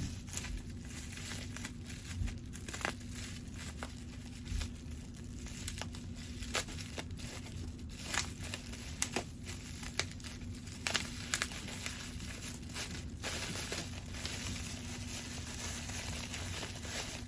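Packaging being unwrapped by hand: irregular crinkling, crackling and tearing of wrapping, over a steady low hum.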